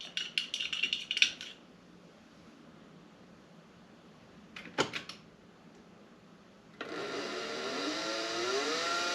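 Light clicks and rattles of handling at the start and again about five seconds in. Near the end the milling machine's spindle motor starts with a rising whine as it spins up, then runs steadily.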